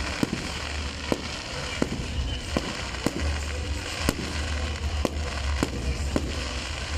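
Aerial fireworks shells bursting in quick succession, a sharp bang roughly every half second, over a steady hiss and crackle of burning stars.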